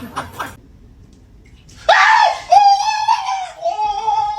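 A person screaming in fright, one long high-pitched scream that starts about two seconds in, breaks off briefly, and keeps going. A few light clicks come at the very start.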